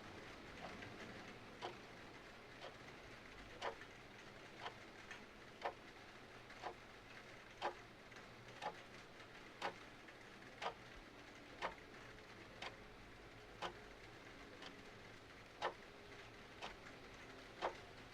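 A clock ticking about once a second, with a tick-tock pattern in which every other tick is louder, over a faint steady hiss.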